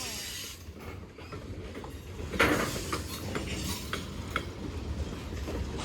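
Norfolk Southern manifest freight train passing: a steady low rumble with metallic clanking and rattling from the cars, and a louder clank about two and a half seconds in.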